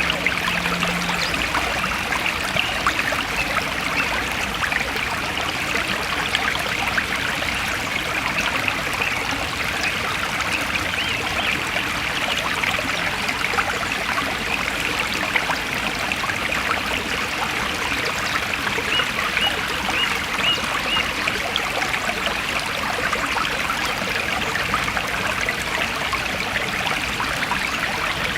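Forest stream flowing steadily over stones, a continuous babbling rush with fine trickling detail. A brief run of small high ticks comes about two-thirds of the way through.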